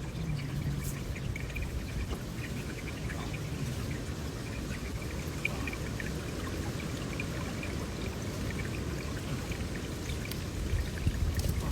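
A steady rush of running water with faint scattered ticks over it.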